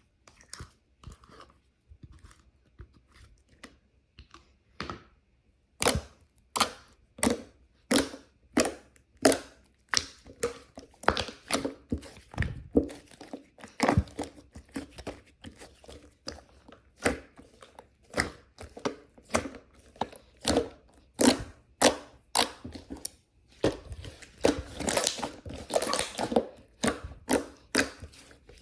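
A run of sharp, crunchy crackling strokes, about one or two a second and uneven, starting about six seconds in after a few faint ticks and growing denser near the end.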